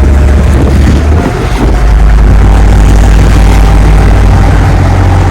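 Canal tour boat's engine running with a steady low rumble.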